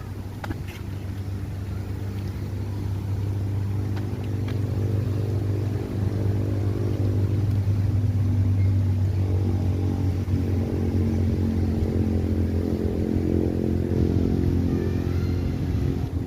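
A nearby engine running at a steady low pitch, its hum growing louder over the first several seconds, holding, then dropping off suddenly near the end.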